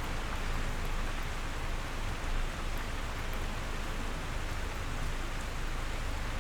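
Steady rain with drops pattering on a surface, a dense even hiss over a low rumble, with faint scattered drop ticks.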